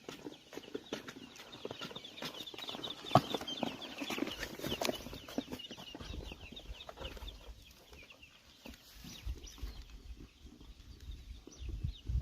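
Chickens with a run of rapid high cheeps, mostly in the first half, among scattered taps and one loud knock about three seconds in.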